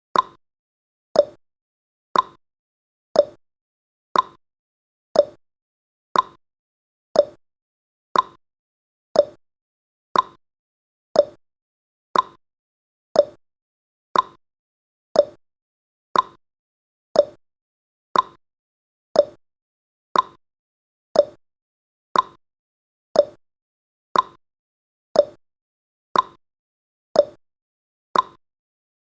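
Countdown timer's ticking sound effect: one short, sharp tick every second, steady and evenly spaced.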